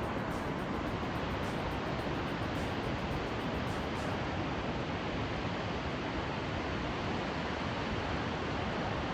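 Steady rushing of river water tumbling down cascades in a rocky gorge, an even wash of sound with no break.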